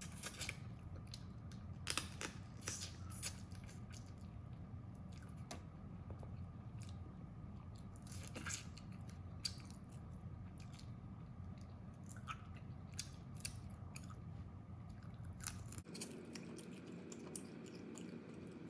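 Crab being eaten: shell cracking and crunching between the teeth along with chewing, in irregular sharp cracks, the loudest about two seconds in.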